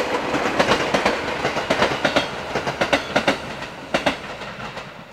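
Electric commuter train passing on narrow-gauge track, its wheels clicking over rail joints in quick groups, dying away near the end.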